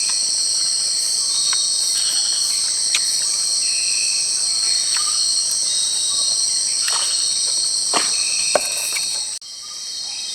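Loud, unbroken chorus of insects in tropical forest, a steady high-pitched shrill drone. It is dotted with a few short chirps and faint clicks, and drops away abruptly near the end before picking up again.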